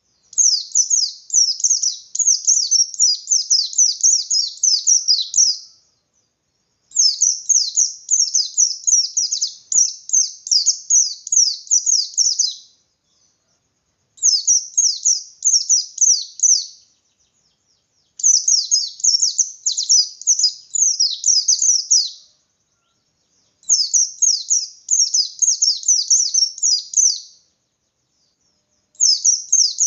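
Pleci bustomi (a white-eye) singing its fast, high 'ngalas' song, a rapid run of down-slurred chirping notes delivered persistently. The song comes in bouts of about three to six seconds with roughly one-second pauses between them: five full bouts, with another starting near the end.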